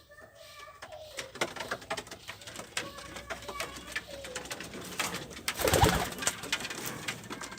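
Pigeons or doves cooing, with scattered sharp taps and scratches and a louder rustling burst about two seconds before the end.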